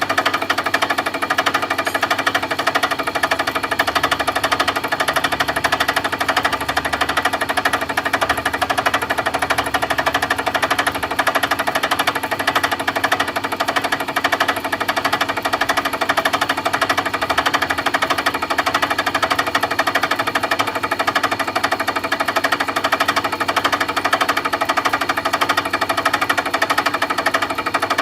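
Milling machine cutting, a steady rapid chatter of cutter strikes over a constant machine hum.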